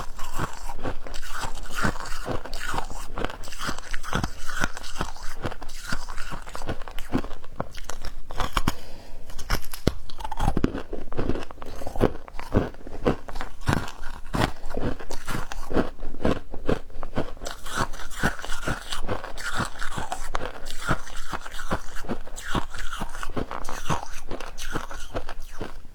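Close-up crunching and chewing of squeaky humidifier ice: a person biting into ice and chomping it, with a steady run of sharp crunches that come in quicker, louder strokes partway through.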